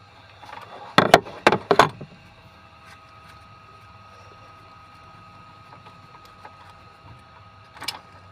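A quick run of loud knocks and clatter about a second in, then a single click near the end: hand tools or engine parts being handled.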